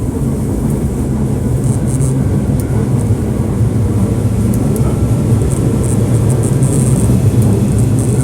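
Hankyu 1300 series commuter train running between stations, heard from inside the car: a steady low rumble of wheels and running gear that grows slightly louder, with faint high hissing flickers.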